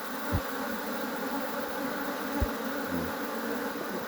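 Steady buzzing hum of many honeybees close around the microphone, with a couple of brief low bumps.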